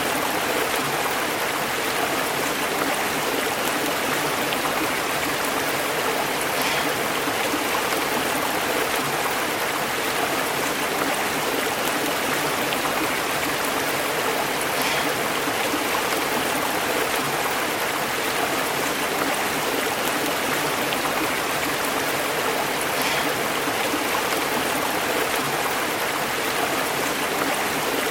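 Stream water burbling and bubbling over rocks in a steady, unbroken rush, with small splashes here and there.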